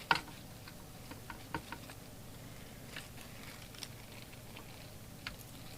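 Scattered clicks and light taps of microphone leads and plugs being handled on a workbench: one sharp click at the start, then smaller ones at irregular intervals.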